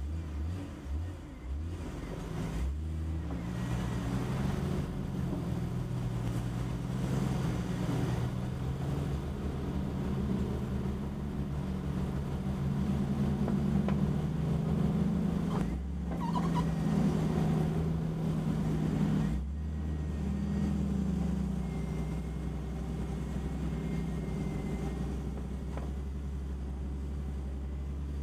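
Jeep Cherokee's engine running at low trail speed, its note shifting up and down with the throttle as it crawls along a rough dirt trail.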